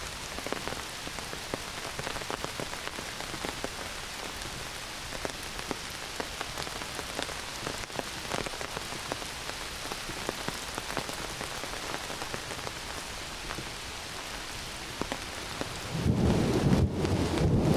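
Heavy summer rain falling steadily on forest foliage and ground, many separate drops striking close by. Near the end a loud low rumble of thunder rolls in.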